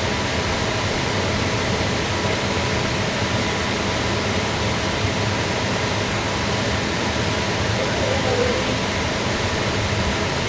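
Steady rushing noise of a running fan, with a faint hum underneath.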